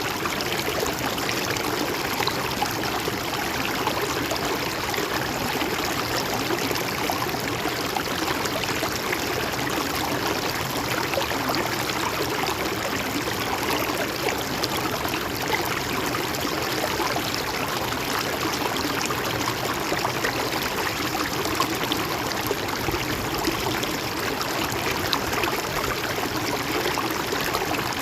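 A shallow river flowing steadily over stones, with a continuous gurgling, trickling rush of water.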